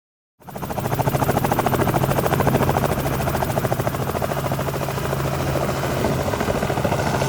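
Helicopter running steadily, its rotor giving a rapid, even chop over a constant low hum. The sound fades in about half a second in.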